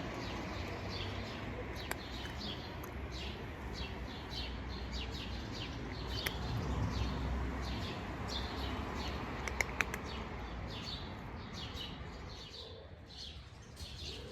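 Small birds chirping over and over, many short high chirps, over a steady low background hum. There are a couple of brief clicks.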